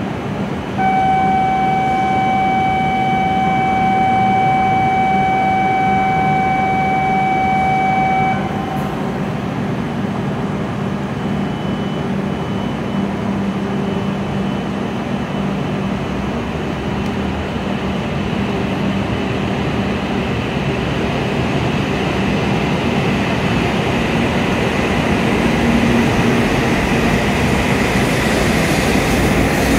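A steady electronic warning tone sounds for about seven seconds at the platform. Then a W7-series Shinkansen pulls out of the station, its running noise growing steadily louder as it picks up speed past the platform.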